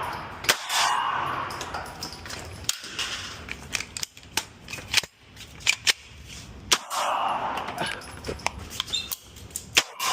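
A string of firearm shots fired during a timed practical-shooting course of fire. The shots come in quick pairs and clusters with short gaps between.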